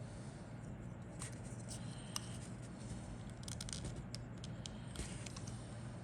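Scattered light clicks, taps and rustles of model-kit parts and packaging being handled, over a steady low hum.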